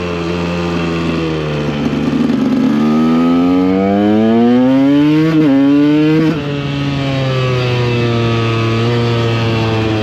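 KTM EXC 125 two-stroke single-cylinder engine under way: the revs climb steadily from about two seconds in, dip briefly about five seconds in, then drop off just past six seconds and hold steady at lower revs.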